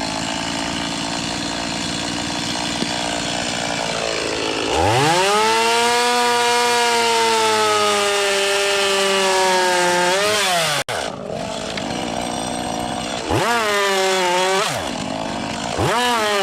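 Chainsaw bucking firewood into stove-length pieces. The saw runs steadily at first, revs up about five seconds in, and holds high with its pitch sagging slightly under the load of the cut. Near the end it drops back and is blipped up twice.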